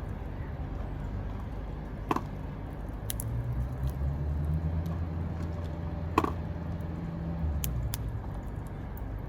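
Low rumble of passing road traffic, swelling for a few seconds and then fading. Over it come a few sharp clicks or knocks, two louder ones about two and six seconds in.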